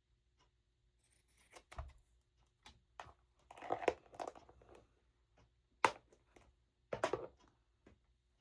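Craft materials being crumpled and torn by hand: rustling and tearing in irregular bursts, with two sharp taps near the end.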